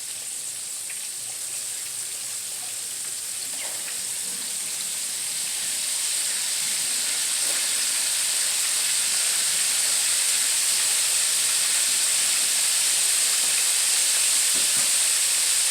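Mustard-coated chicken wings deep frying in hot oil in a wok: a steady sizzle that grows gradually louder, with a few faint crackles.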